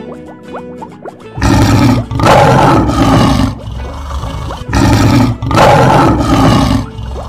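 Lion roar sound effect, heard twice, each roar about two seconds long, over light plucked background music.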